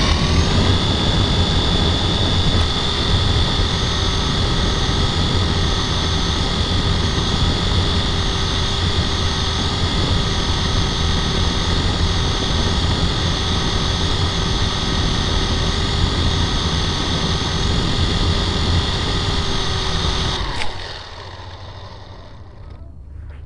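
Toy helicopter's motor and rotors running with a steady high whine over a rushing rotor noise, then cutting off suddenly about 20 seconds in.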